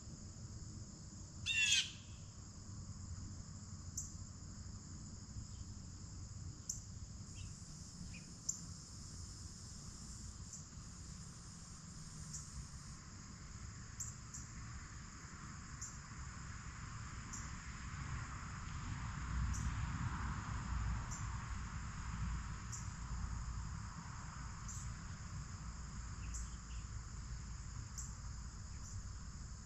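Steady chorus of crickets and other insects, pulsing at a high pitch, with a single bird call about two seconds in. A low rumble swells and fades in the second half.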